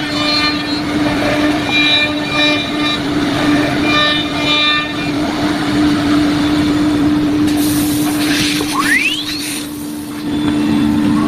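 CNC router spindle running at a steady high pitch while milling a wood panel, with the hiss of the cut; a rising sweep about nine seconds in.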